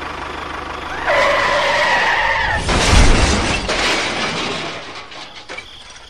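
A DIY mini tractor's motor running with a steady buzz. About a second in, a high squealing tone comes in for about a second and a half. It is followed about three seconds in by a loud rushing crash with a deep rumble that dies away.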